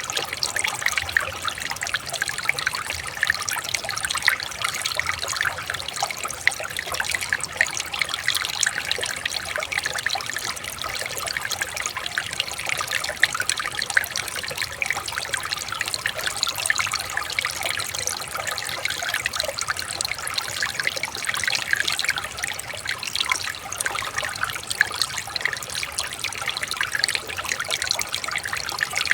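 Shallow river water trickling and babbling over stones, a steady bubbling with no change.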